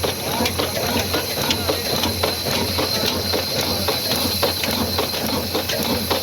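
Old 22 hp slow-running stationary diesel engine driving a wood-cutting machine, running steadily with a constant low hum and a continual clatter of mechanical clicks and knocks.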